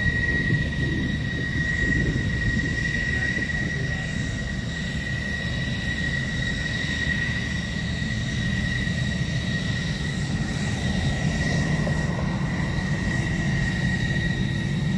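Avro Lancaster bomber's four Merlin piston engines giving a steady low rumble as it climbs slowly away. A thin, steady high whine sounds over the rumble.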